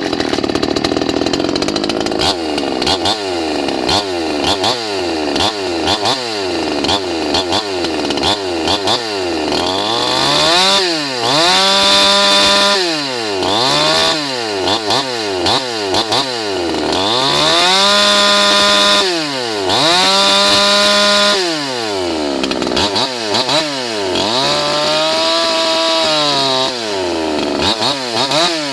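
Ported Ural 5800 58 cc Chinese two-stroke chainsaw cutting wood. Its engine revs up and drops back over and over, quickly at first, then holding at full speed for a second or two at a time between dips.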